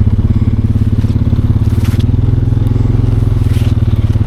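A four-wheeler's engine running steadily with a fast, even low pulse, with faint brief hissing scrapes about two seconds in and again near the end.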